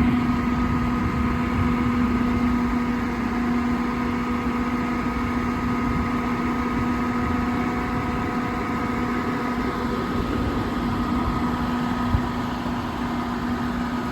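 Truck's PACCAR PX-8 diesel engine running at a steady speed with a constant tone, powering the PTO-driven hydraulic crane as it is worked. A single short knock about twelve seconds in.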